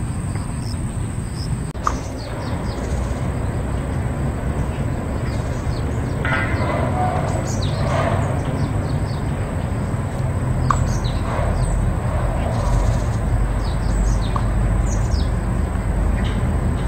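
Small birds chirping, many short high chirps that drop in pitch, scattered all through, over a steady low rumble.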